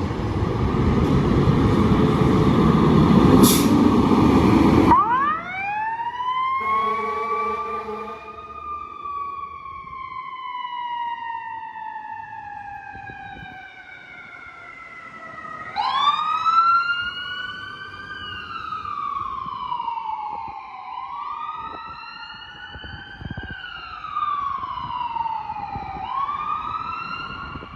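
Fire apparatus responding: a loud, heavy truck rumble for about the first five seconds, then a siren starts up and wails in long, slow rises and falls, several times over.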